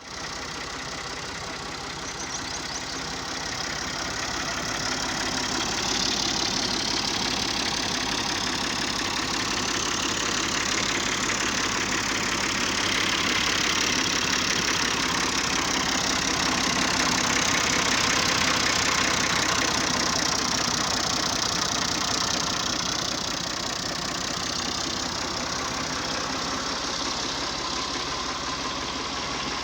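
Massey Ferguson 260 tractor's diesel engine running steadily at idle, growing a little louder over the first few seconds.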